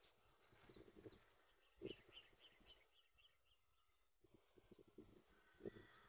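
Faint bird chirps: scattered short high chirps, with a quick run of them about two seconds in, and a few soft knocks.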